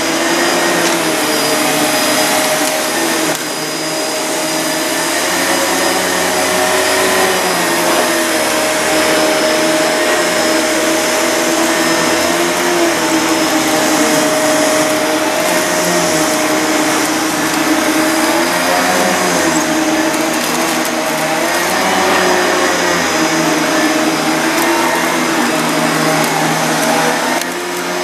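Panasonic MC-CG885 bagged vacuum cleaner running steadily while picking up dog hair, its motor tone wavering up and down every couple of seconds. The level dips briefly about three seconds in and again near the end.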